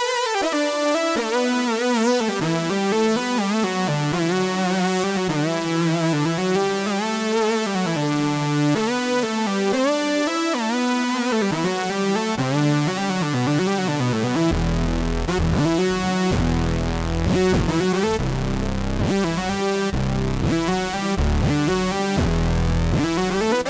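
Roland Fantom-0 synthesizer playing a custom patch: a keyboard melody with gliding pitches, joined by a deep bass about two-thirds of the way through.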